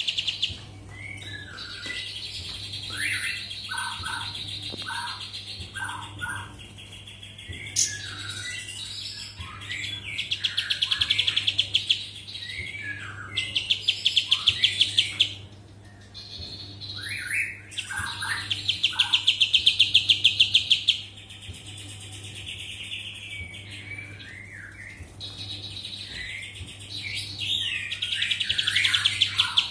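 A kapas tembak songbird singing: long, rapid high trills broken by louder runs of fast repeated rattling notes, four times, with short lower whistled notes in between. A steady low hum runs underneath.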